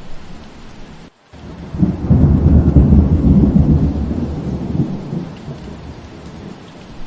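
Steady rain with a roll of thunder: a deep rumble swells up about two seconds in, peaks, then fades away over the next few seconds. The sound cuts out briefly about a second in.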